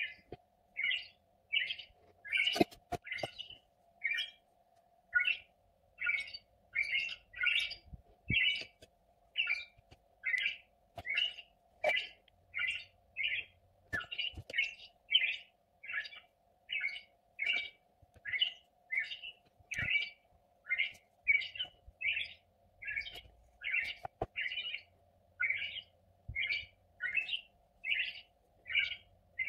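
A bird chirping over and over, about two short high chirps a second at an even pace, over a faint steady hum, with a few soft knocks now and then.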